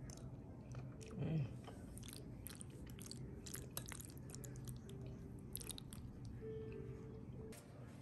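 Close-up wet chewing and mouth clicks of someone eating soft macaroni goulash, with a brief low hum of voice about a second in.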